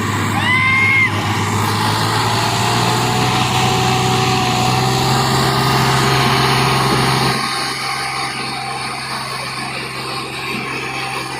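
Diesel tractor engines running steadily, a loud low drone that drops in level about seven seconds in. A brief high-pitched call cuts through near the start.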